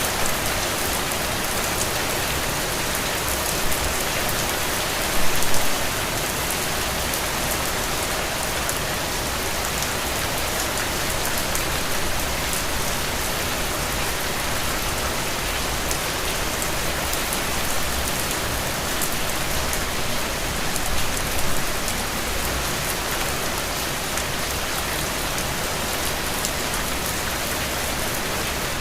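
Steady rain falling, an even hiss with fine drop ticks throughout, with a couple of brief louder patters about five seconds in and again around twenty-one seconds.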